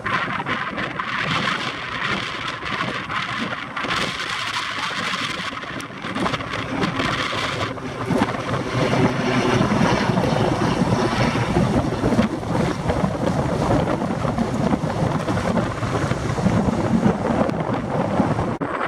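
Strong wind buffeting the microphone, with the rushing noise of a jet airliner's engines growing louder about eight seconds in and staying loud.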